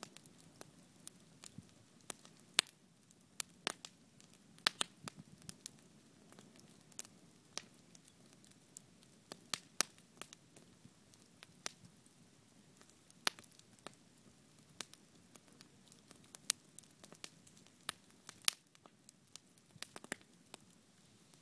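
Wood campfire burning, with irregular sharp crackles and pops over a low steady hiss.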